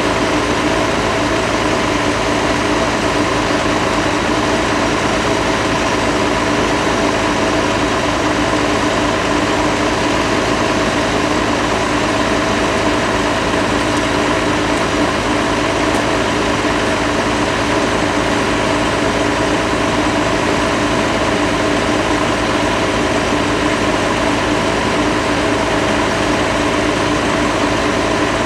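Bucket truck engine idling steadily, an even drone with a few constant tones.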